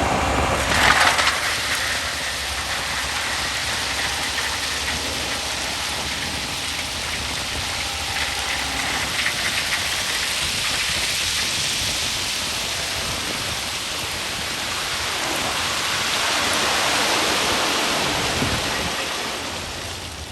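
Crushed-stone railroad ballast pouring out of a dump truck's raised bed: a steady rushing rattle of stone that swells near the end and then fades, with a sharp clatter about a second in.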